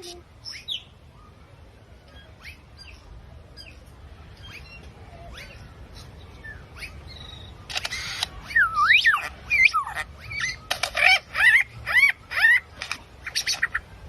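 Birds calling: scattered faint, short falling chirps, then from about eight seconds in a run of loud, rapid calls that sweep up and down in pitch, with sharp clicks mixed in.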